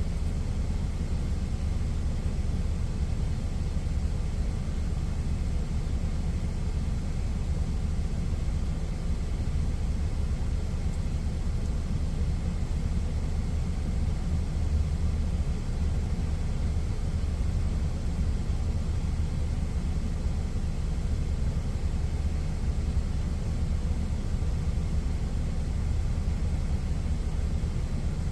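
Steady low rumble of an idling truck engine, even and unbroken throughout.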